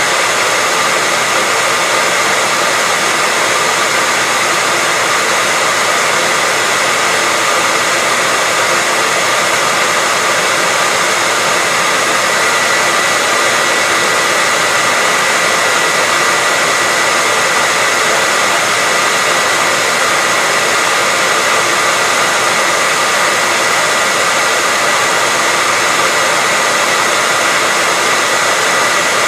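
Electric hair dryer running steadily: a continuous airy rush with a thin whine near 2 kHz, unchanging throughout.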